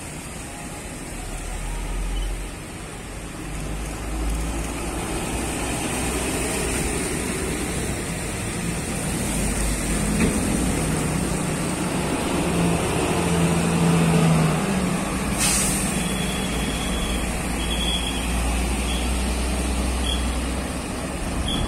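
A heavy diesel road or rail vehicle's engine running as it goes by, with a low rumble. About two-thirds of the way through there is a short hiss of released air.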